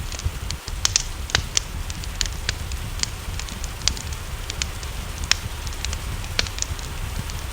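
Wood fire crackling, with irregular sharp pops several times a second, over a steady low rumble and an even hiss of rain.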